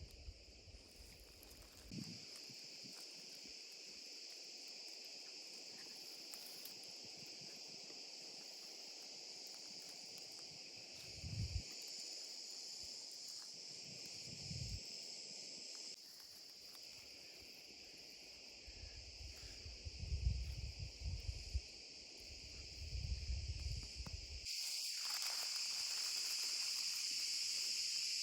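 Crickets chirping steadily as a high, even chorus, louder in the last few seconds. A few dull low thumps and rumbles come about eleven seconds in and again between about nineteen and twenty-four seconds.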